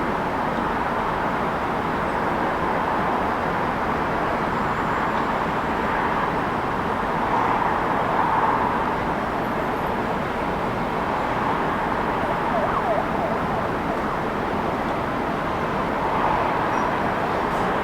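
Steady city road-traffic noise, an even wash of passing vehicles that swells slightly about eight seconds in and again near the end.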